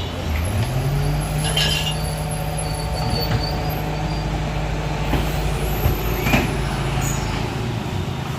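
Diesel engine of an Isuzu FVR garbage truck stepping up to a steady raised speed about half a second in, holding it, and dropping back near the end, with short bursts of air hiss about a second and a half in and again near six seconds.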